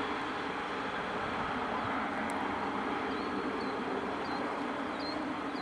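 Passing passenger train, a steady rumble slowly fading as it moves away. Faint repeated bird chirps can be heard over it in the second half.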